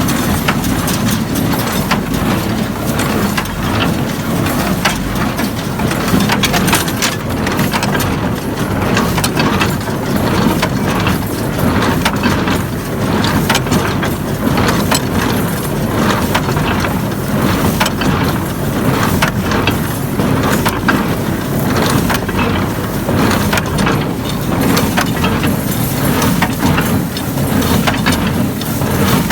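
International Harvester 430 small square hay baler working behind a running tractor: a steady engine drone with repeated knocks and crunching as the plunger packs hay into bales.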